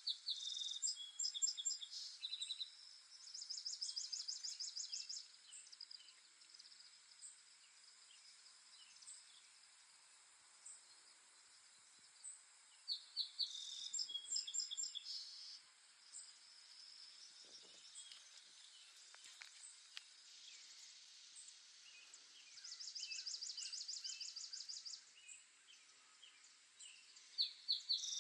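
Songbirds singing in short bouts of rapid, high-pitched trilled notes, each bout lasting a second or two and coming back every few seconds, over a faint steady hiss.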